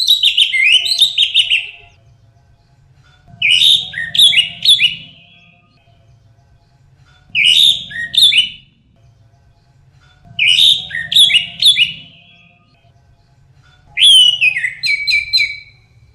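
Orange-headed thrush (anis merah) singing: five short phrases of quick, high notes that slide downward in pitch, each phrase under two seconds long and separated by pauses of about two seconds.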